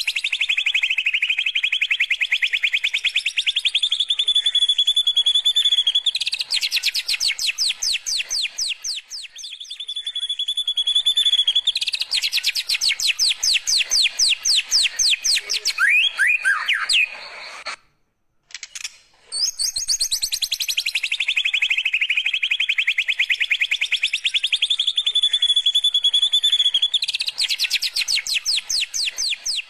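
White-rumped shama singing long runs of very fast, evenly repeated notes: canary-like rolling trills, some held level and some sweeping down. About two-thirds in, the song breaks off for a moment, then the same phrase sequence starts over.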